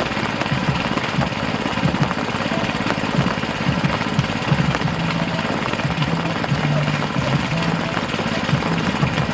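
Small engine of a water pump running steadily with a chugging low hum, over a steady hiss of water.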